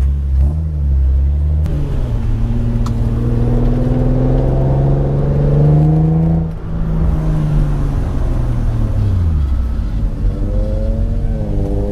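Infiniti G35's 3.5-litre V6 with an aftermarket Motordyne exhaust pulling under acceleration, its pitch rising for several seconds. The sound dips briefly about six and a half seconds in, then the pitch falls as the car slows and climbs again near the end.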